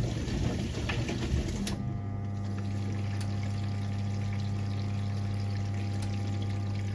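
1978 Siemens WA4600 washing machine: irregular sloshing and clatter from the drum stops about two seconds in. A steady electric hum with water running through it follows.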